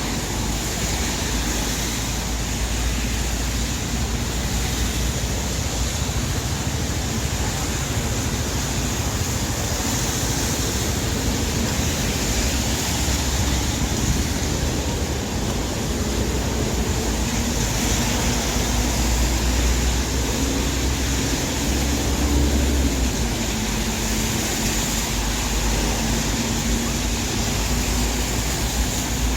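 Steady city street noise in the rain: a wash of traffic and wet-road hiss over a deep low rumble. A faint low hum comes in about two-thirds of the way through and drops slightly in pitch.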